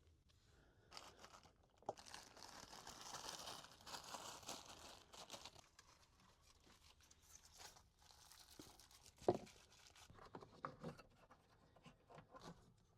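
Faint rustling for a few seconds, then scattered light clicks and one sharper knock about nine seconds in.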